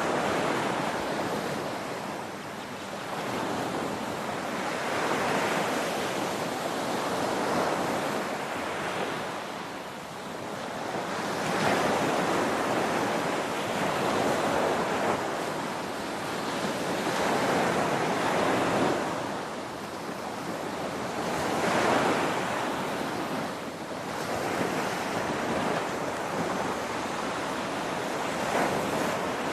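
Ocean waves breaking on a beach, the surf swelling and falling back every few seconds in a steady rushing hiss.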